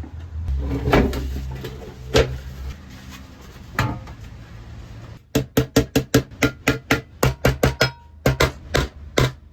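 Hammer blows: a few separate knocks, then from about halfway a quick run of sharp strikes, about four or five a second, with two short pauses.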